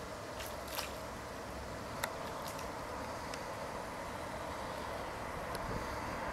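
Distant TGV high-speed train approaching along the far bank of the river: a steady rush that grows slowly louder, with a few faint ticks.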